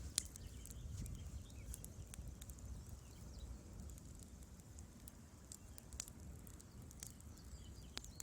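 Wood fire crackling in a fireplace: irregular sharp pops and snaps from the burning logs over a low, steady rumble of the flames, with the loudest pop right at the start.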